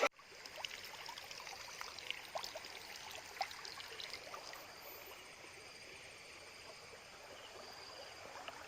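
Faint, steady sound of flowing, trickling water with scattered small clicks.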